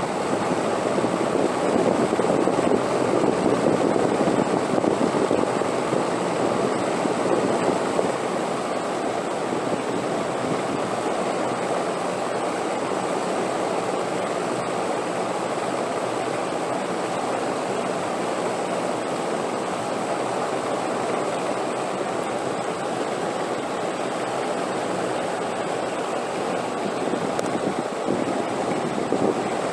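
Steady wind noise, a dense whooshing rush that is stronger for the first several seconds and then evens out.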